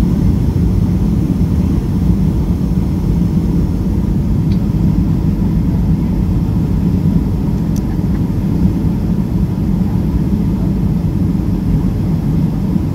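Steady low rumble of engine and airflow noise heard inside the cabin of a Boeing 757-300 airliner during its approach to landing.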